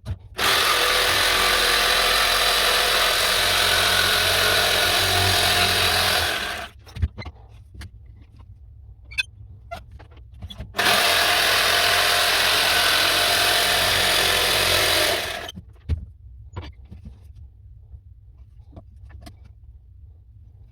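Electric power tool run in two steady bursts, about six seconds and then about five seconds long, working on wood, with small knocks and clicks between and after.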